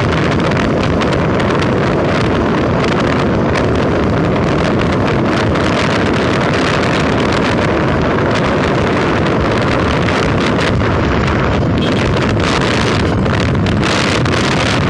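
Loud, steady wind buffeting the microphone of a vehicle riding along a road, with the vehicle's running noise underneath.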